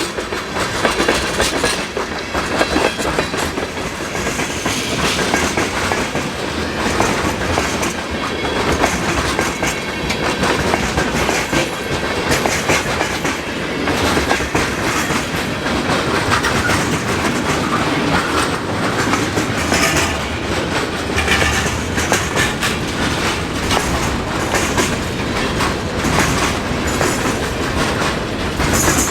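Freight train cars rolling past at close range, steel wheels clicking over the rail joints in a continuous clickety-clack, running over ice-coated rails.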